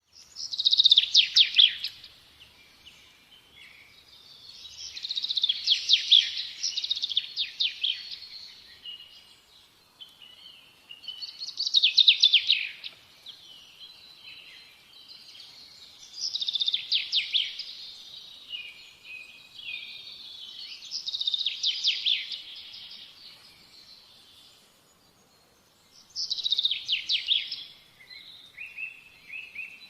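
Birds calling in six bursts of rapid, trilling chatter, about five seconds apart, with quieter twittering in between.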